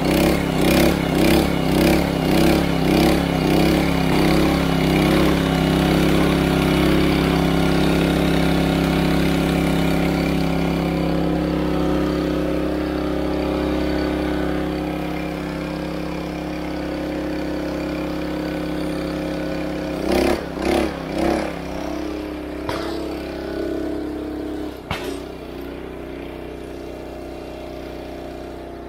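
Small gasoline engine of a log splitter running steadily. Its note surges in quick pulses at the start and again about two-thirds of the way through, as it takes load. Two sharp cracks come near the end.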